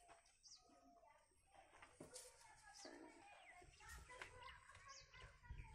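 Near silence with faint, scattered bird chirps: short quick high notes falling in pitch, a few each second.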